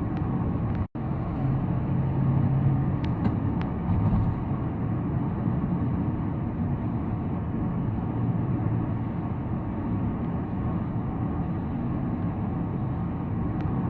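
Road and engine noise inside a moving car's cabin: a steady low rumble of tyres and engine. The sound drops out for an instant about a second in, and a few light clicks come around three seconds in.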